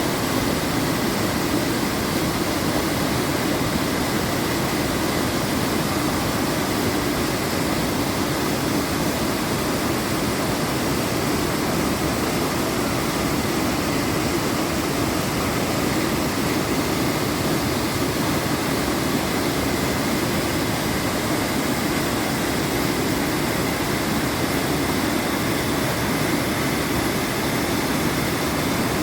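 Waterfall on a mountain creek: a steady, even rush of falling water.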